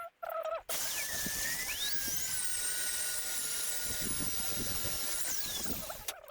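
Magnetic base drill running: its motor starts with a whine that rises in pitch, runs steadily for about five seconds while cutting a hole in a metal strip, then winds down and stops near the end.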